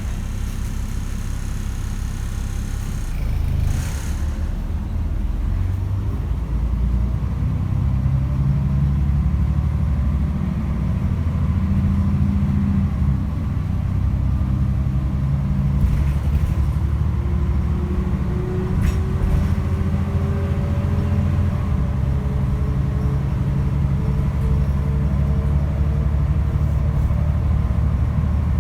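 Mercedes-Benz O405 city bus running under way, heard from on board: a steady heavy low rumble with a few light clicks. A whine rises slowly in pitch through the second half.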